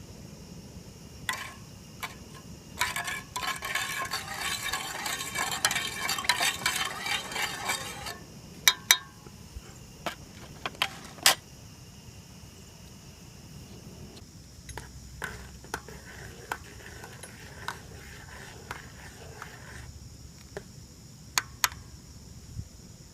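Campfire cooking: a utensil stirs and clinks against a metal pot, with food sizzling for a few seconds near the start, then a run of sharp clinks and lighter scraping.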